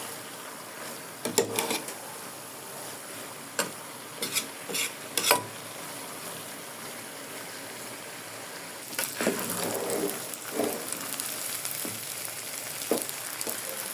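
Spaghetti in tomato stew sizzling in a pot, a steady hiss, while a spoon stirs it and knocks against the pot a few times. The stirring gets louder about two-thirds of the way through.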